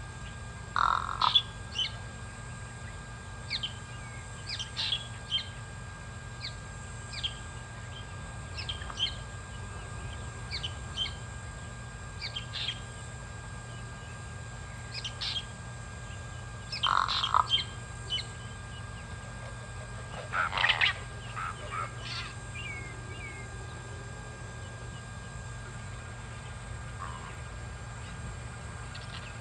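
Pied crow calling with short, harsh calls. The loudest clusters come about a second in, about halfway through, and a few seconds after that, with many briefer, higher calls scattered between them, over a steady low hum.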